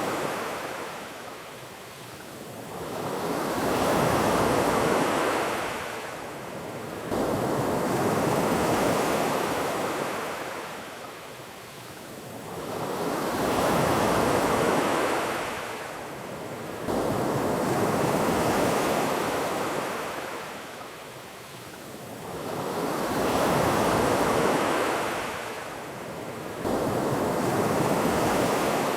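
Ocean surf: waves washing in and drawing back in slow swells about every five seconds. The level jumps up suddenly a few times.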